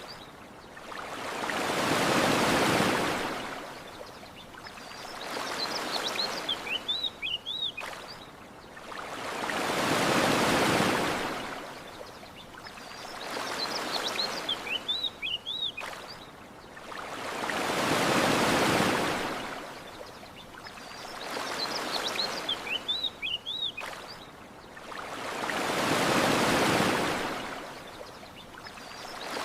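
Gentle ocean waves washing onto a shore, a swell building and falling away about every eight seconds with smaller ones between. A short run of small bird chirps comes in each lull, repeating in the same pattern.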